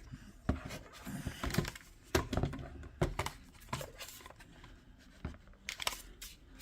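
Handling during unboxing: scattered light knocks and clicks of plastic vacuum accessories and packaging being taken out and turned over, with some rustling.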